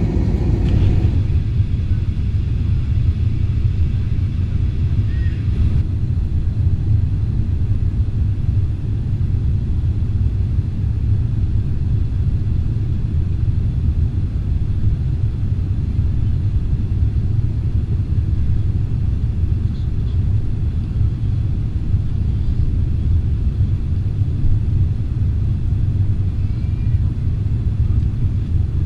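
Airbus A320 cabin noise in flight: the steady low rumble of the engines and airflow, unchanging throughout.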